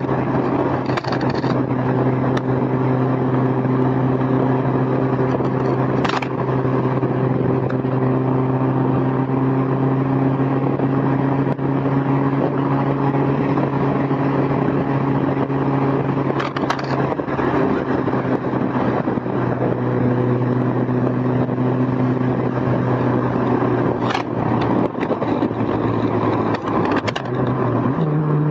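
Honda S2000's four-cylinder engine pulling at a steady speed with the top down, heard from the passenger seat over wind and road noise; its pitch changes near the end. A loose recorder on the seat clatters briefly a few times.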